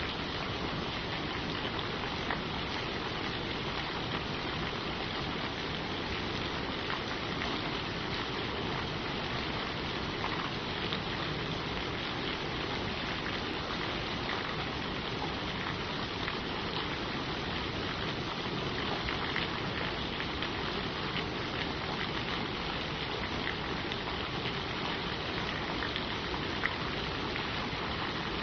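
Steady rain falling on leaves: an even patter with scattered individual drop ticks.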